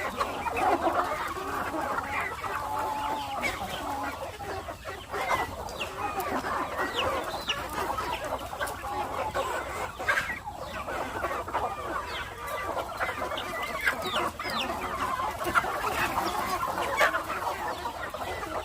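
A flock of country chickens clucking and calling together: many short calls overlapping without a break.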